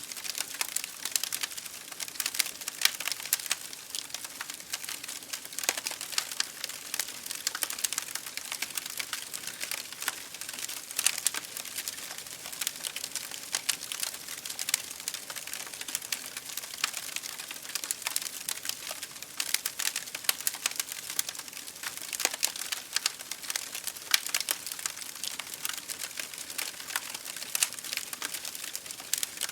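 Campfire crackling: a continuous run of small snaps and pops from burning wood, with a few louder cracks scattered through.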